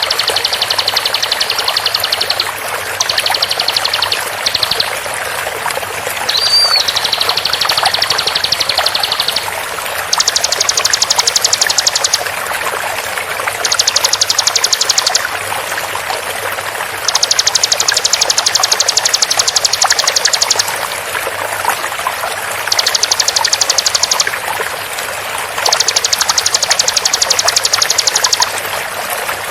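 Bar-winged prinia (ciblek) song: high-pitched phrases of very rapid, evenly repeated notes, the 'tembakan' shot, coming over and over in bursts of one to three seconds with short pauses between them. A steady sound of running water plays underneath.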